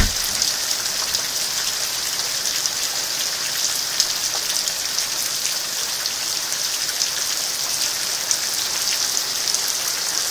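Steady rain falling after a hailstorm, an even hiss with many small drop impacts pattering through it. A single low thump comes right at the start.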